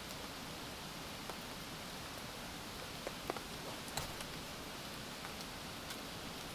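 Steady rain falling, with a few separate drops ticking sharply now and then.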